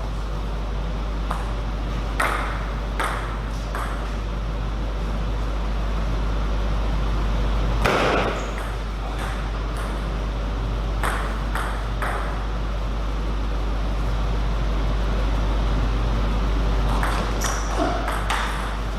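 Table tennis ball clicking off bats and the table: sharp pings at irregular intervals, the loudest about eight seconds in and a quick run of them near the end, over a steady low hum.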